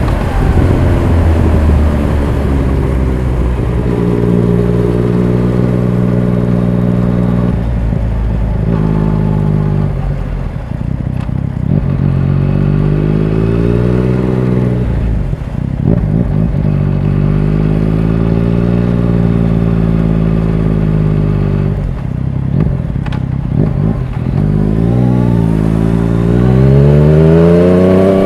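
Motorcycle engine with an aftermarket full exhaust, running loud with its pitch rising and falling. It holds steady for a few seconds at a time, dips sharply several times, and climbs again near the end.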